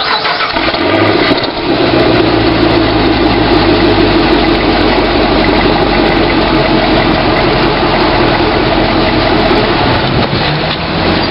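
Car engine running steadily at an even pitch, loud and close, after a brief change in the first second or two.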